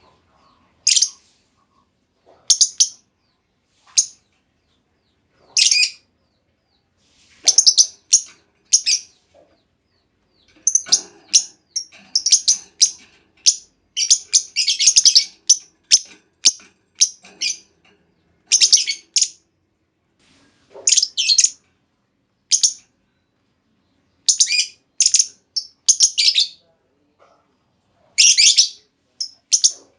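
Female lovebird giving short, shrill, high-pitched chirps in irregular bursts, some single and some in quick clusters, thickest about halfway through.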